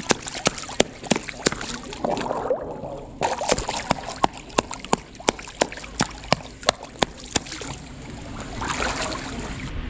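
Sea otter chewing shellfish: sharp, crunchy cracks of shell, about three a second, that stop about three-quarters of the way through, with water sloshing underneath.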